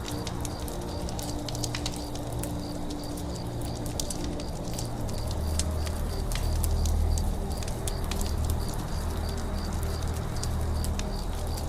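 Wood campfire crackling with many sharp pops, over a low rumble that swells midway. Birds call in the background, with a faint, evenly repeating high chirp.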